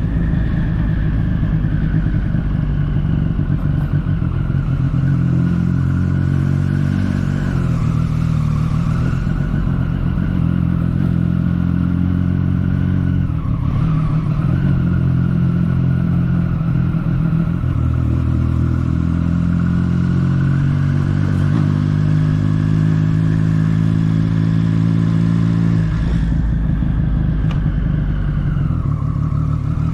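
Motorcycle engine running under way, its pitch stepping down and back up several times as it changes gear.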